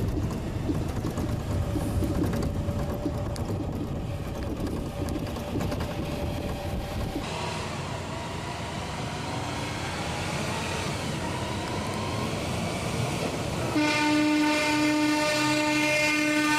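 Low rumble of a heavy vehicle's engine, then, after a sudden change about seven seconds in, a loud horn sounds steadily for the last few seconds.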